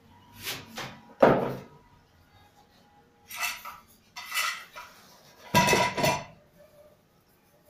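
Clinks and knocks of parts and tools being handled while a vacuum cleaner's motor is swapped: about five separate short clatters, the loudest about two-thirds of the way through.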